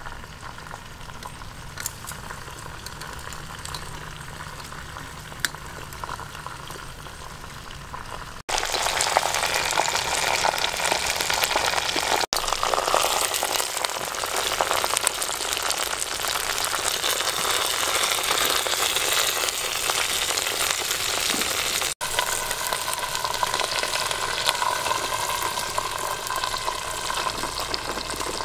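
Chicken pieces frying in hot oil in a pot. The sizzling is quieter at first, with a few light clicks, then loud and dense from about a third of the way in, and eases a little near the end.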